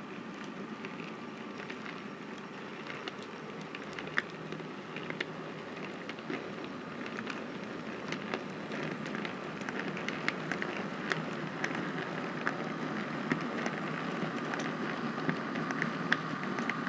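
Dapol class 29 model diesel locomotive, with no sound fitted, running along the layout: a steady motor and gear hum with many small clicks and crackles from the wheels on the track, growing slightly louder.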